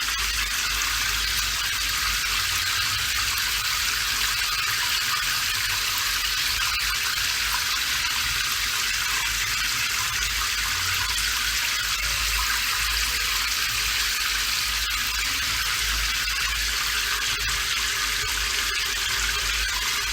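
Steady rain, an even wash of water noise with no breaks or changes.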